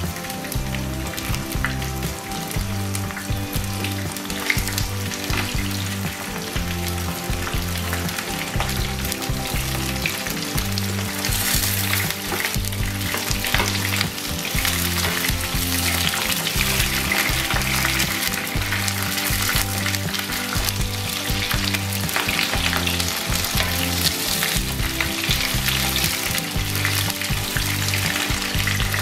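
Brinjal (eggplant) pieces sizzling as they shallow-fry in oil in a non-stick wok. About a third of the way in the sizzle grows brighter, and a wooden spoon scrapes and turns the pieces.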